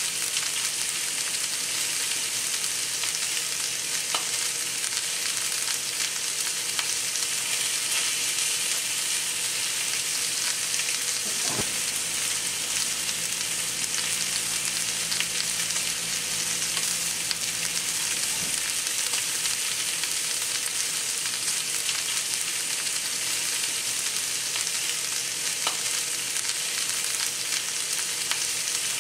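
Minced garlic sizzling steadily in a hot cast-iron skillet, with now and then the faint scrape of a metal utensil stirring it.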